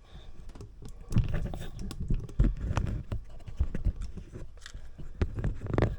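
Handling noise: a run of irregular clicks, taps and low knocks, like hands fumbling with the camera and the heater's controller.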